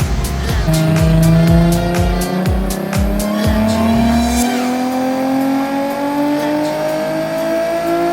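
Nissan 350Z's 3.5-litre V6 with a single-exit exhaust, held at full throttle and rising steadily in revs for about seven seconds in one long pull, as on a dyno run. A music track with a heavy beat plays underneath for the first half.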